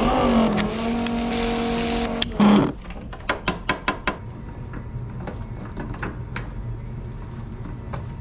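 A fuel pump runs with a steady whine for about two and a half seconds while the loader is refuelled, then stops. Light clicks and knocks follow over a low steady hum.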